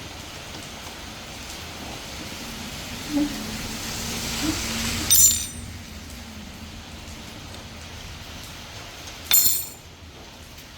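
Two sharp metallic clinks, about four seconds apart, as metal parts knock together, over a steady hiss that swells for a couple of seconds before the first clink.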